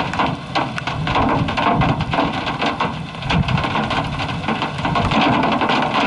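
Hail and rain pelting a vehicle's body: a dense, irregular clatter of hard impacts over a steady hiss of rain.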